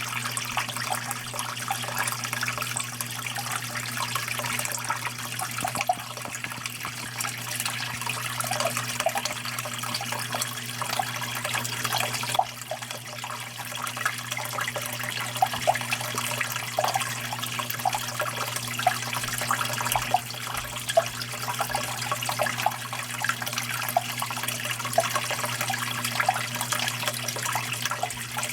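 Water running and splashing steadily, with many small irregular trickles and drips, over a steady low hum.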